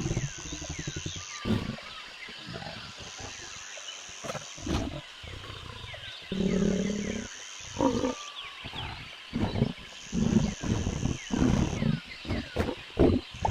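Lion roaring and grunting repeatedly, with one longer roar about halfway through. Under it runs a high buzz that comes and goes about every two seconds, with faint chirps.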